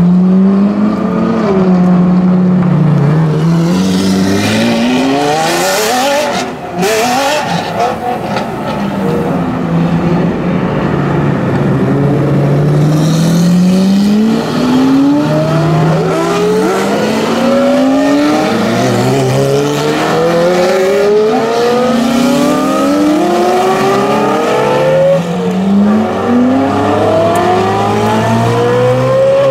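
Supercar engines accelerating hard, the exhaust note climbing in pitch and dropping back at each upshift, over and over as cars pull away. There is a brief sharp crackle about six to seven seconds in.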